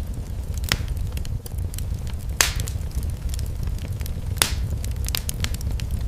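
Fireplace fire crackling over a steady low rumble, with many small ticks and three louder pops about two seconds apart.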